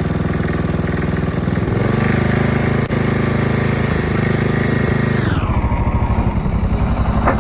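Engine of a mid-to-late-1980s Snapper riding mower running. About five seconds in it slows to a low, slow idle, then speeds back up near the end.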